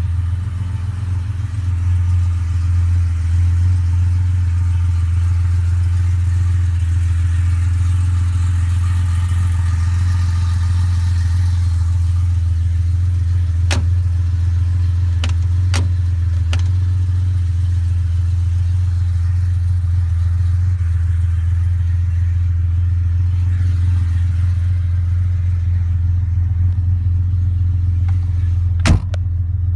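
Classic Porsche 911's air-cooled flat-six idling steadily, with a deep even hum. A few sharp clicks about halfway through and a louder knock near the end.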